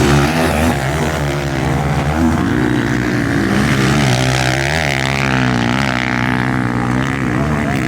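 Several motocross bike engines revving over one another, their pitch rising and falling with the throttle as the bikes race.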